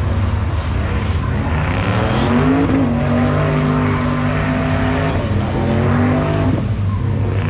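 Car engine doing a burnout: revs climb about two seconds in and are held high for several seconds while the tires spin, then drop off near the end.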